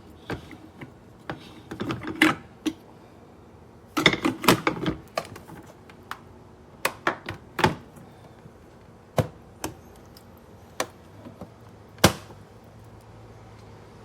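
Irregular clicks and clacks of hard objects being handled, some in quick clusters and some single sharp knocks.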